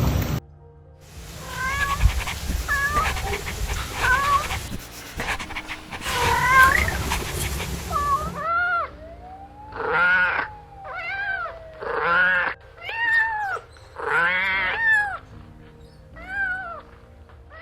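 Kittens meowing: a few faint short meows over a hiss at first, then from about halfway a run of louder, clearer meows, roughly one a second, each rising and then falling in pitch.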